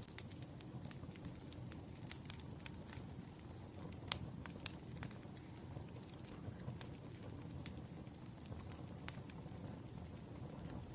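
Wood fire burning steadily with a low rumble, its logs crackling and popping at irregular moments; the loudest pop comes about four seconds in.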